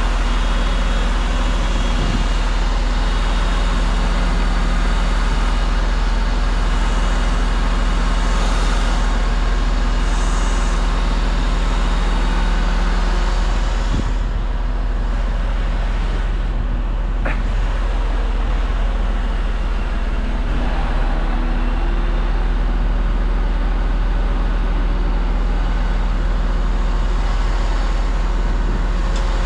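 Crane truck's diesel engine running steadily, with a constant low drone and mechanical noise.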